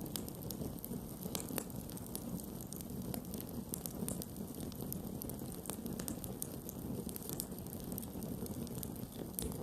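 Campfire burning, a steady low rush of flames with frequent small irregular crackles and pops of the burning wood.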